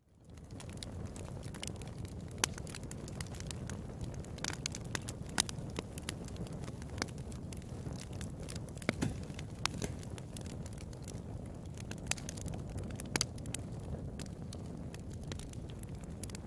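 Wood fire in a fireplace crackling, with irregular sharp pops over a steady low rush, a few pops standing out louder.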